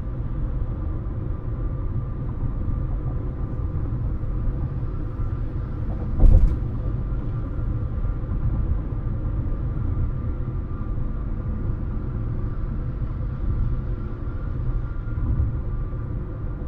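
Road and engine noise inside a moving car: a steady low rumble of tyres on pavement with a faint steady whine, and one sharp thump about six seconds in as the car goes over a bump in the road.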